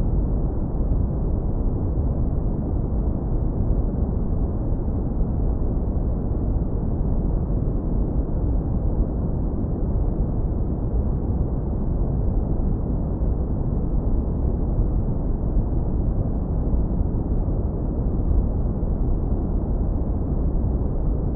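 Synthetic brown noise, heavily low-pass filtered: a steady, deep rumble with no treble.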